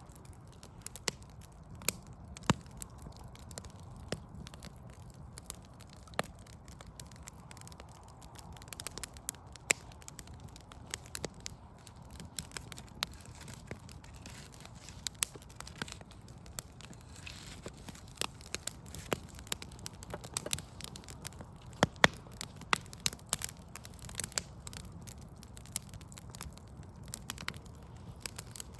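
Backyard wood fire crackling, with irregular sharp pops of varying loudness, a few much louder than the rest, over a steady low rumble.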